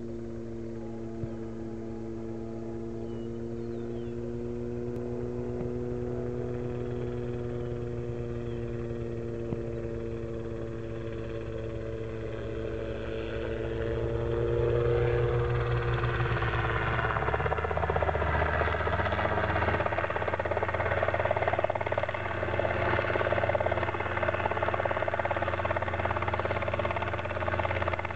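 Robinson R22 helicopter's piston engine and rotor running during an autorotation, with several steady tones at first. About halfway through the sound turns louder and rougher and stays that way.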